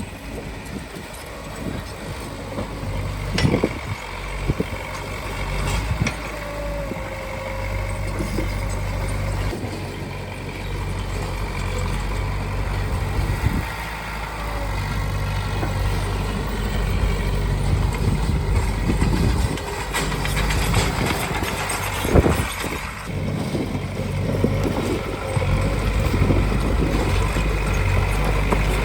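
Heavy diesel earthmoving machinery running steadily, with a low engine drone that builds slightly, and a few sharp clanks now and then.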